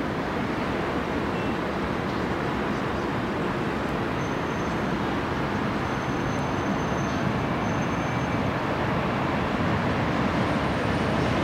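Distant running noise of a passenger train hauled by an HXD1D electric locomotive, a steady rushing haze that grows slowly louder toward the end as the train approaches.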